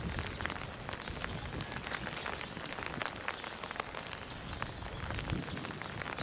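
Steady rain pattering, with many small drops ticking irregularly.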